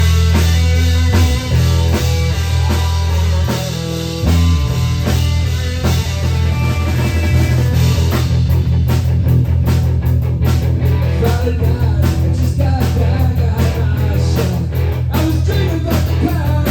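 Rock song with drum kit, bass and electric guitar playing steadily; the drum hits come through more sharply about halfway through.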